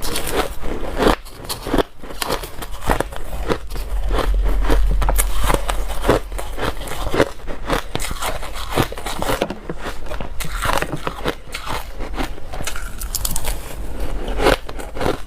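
Dry, crunchy ice being bitten and chewed right at the microphone: a rapid, irregular run of crunches and crackles.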